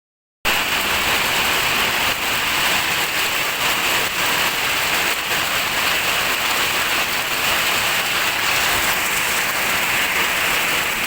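Heavy rain falling in a steady, dense hiss of drops hitting the ground and surfaces, starting about half a second in.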